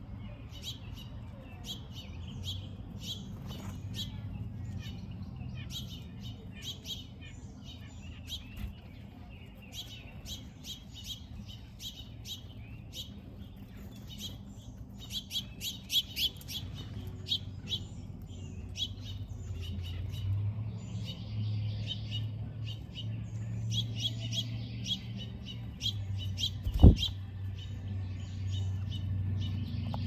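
Wild songbirds chirping in many short, quick notes, thickest in bursts midway and later. A low steady hum runs underneath, growing a little louder about two-thirds of the way in, and a single sharp knock near the end is the loudest sound.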